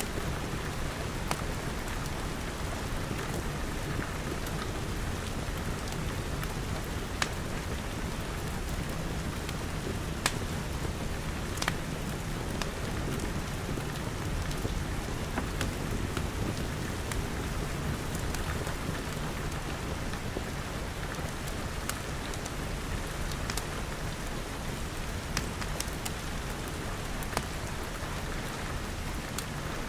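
Steady rain falling, with scattered sharp pops and cracks from a crackling wood fire.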